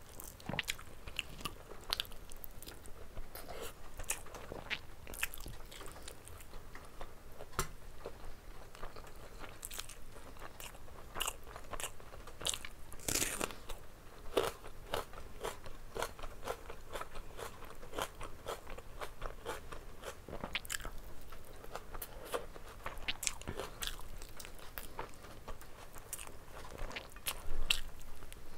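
Close-miked eating: a person chewing mouthfuls of rice and curry with wet mouth clicks and smacks. Crunchy bites into a raw red onion come around the middle, and the loudest sound, a bite tearing meat off a mutton bone, comes near the end.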